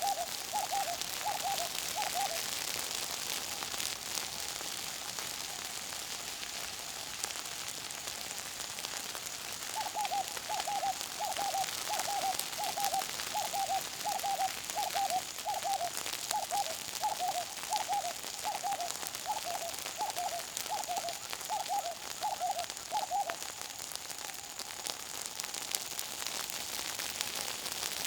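Bush fire crackling with a steady hiss, while a bird repeats short low notes, about three every two seconds: a brief run at the start and a longer one from about ten seconds in until about twenty-three seconds in.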